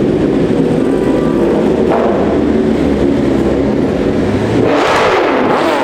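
Loud engines and exhausts of vehicles pulling away, running steadily, with a rev that rises about five seconds in.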